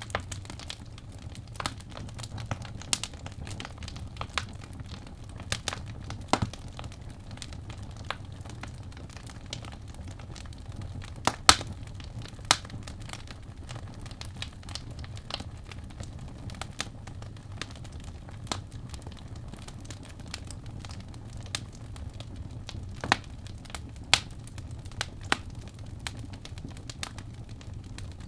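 Wood fire burning in a fireplace, crackling with irregular sharp pops of varying loudness over a steady low background, the loudest pops about halfway through.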